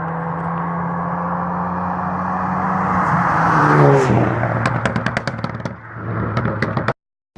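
Stage 3 Ford Focus ST engine and exhaust held at steady high revs, then released: the revs fall about 4 s in and the exhaust pops and crackles on overrun, a rapid string of sharp backfire pops lasting about two seconds. Cuts off suddenly near the end.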